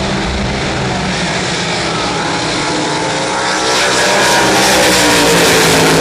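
Drag boat engine running loud, its pitch gliding upward and the sound growing louder about four seconds in.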